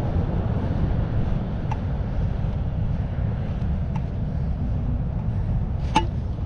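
Wind buffeting the microphone in a steady low rumble, with two faint clicks and one sharper click near the end.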